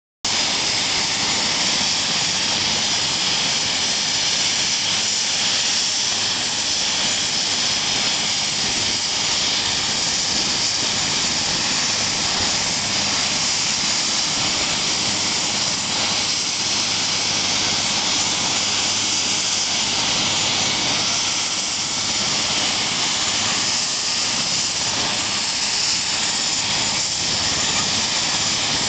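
Helicopter hovering while lifting a load, its turbine engine and rotor making a loud, steady rushing noise.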